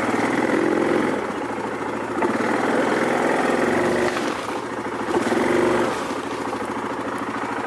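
ATV engine idling while its electric winch runs in a few short pulls on a fallen log, each pull making the sound swell for about a second.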